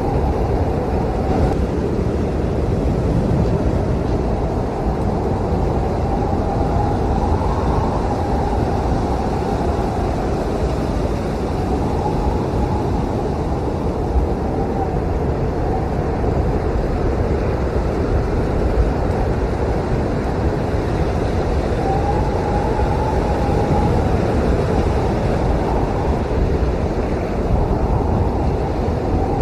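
Snowstorm wind blowing, a loud, steady low rush with a faint howl that rises and falls twice.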